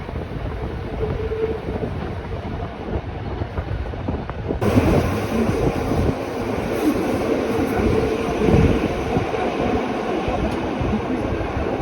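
Rhaetian Railway regional train running on the Bernina line: a steady rumble of wheels on the track. About four and a half seconds in, the sound suddenly turns brighter and louder.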